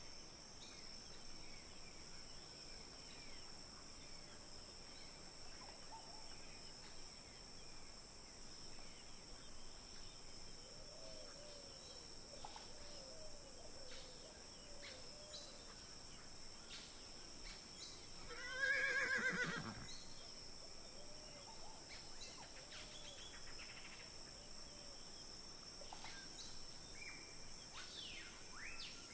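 Quiet woodland ambience with a steady high insect buzz and scattered bird calls. About two-thirds of the way through, a horse whinnies once, a falling, wavering call a little over a second long and the loudest sound.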